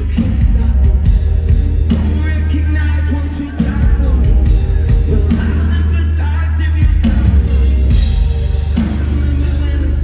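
Live metalcore band playing loud and distorted in a concert hall, with heavy bass and drums under sung vocals, as recorded on a phone in the crowd.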